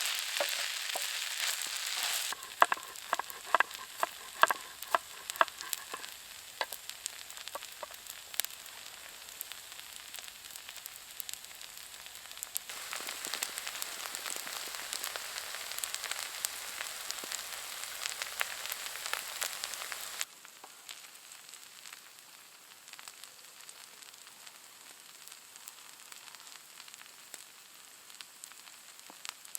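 Food frying in a pan, a steady sizzle with a quick run of sharp pops or taps a few seconds in. The sizzle changes in level abruptly near 2, 13 and 20 seconds and is softer in the last third.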